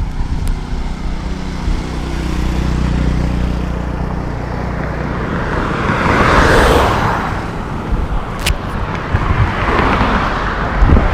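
Road traffic on a bridge: a low engine hum, then two vehicles passing by, one around the middle and one near the end.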